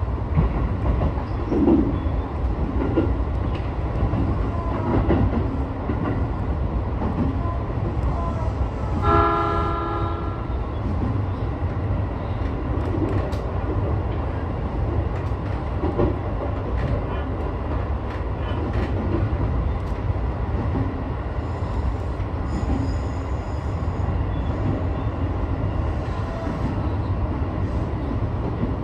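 Sotetsu 12000 series electric train running along the line, with a steady low rumble of wheels on rail and a few faint rail-joint clicks. About nine seconds in, a train horn sounds once for about a second and a half.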